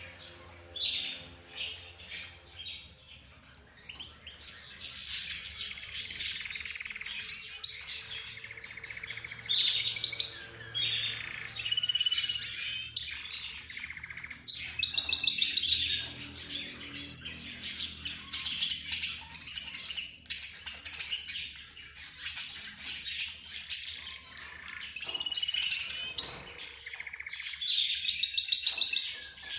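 A mixed flock of cage birds, budgerigars, lovebirds, zebra finches and a canary, chirping, chattering and warbling over one another in dense overlapping calls. The calls are sparser for the first few seconds, then busier.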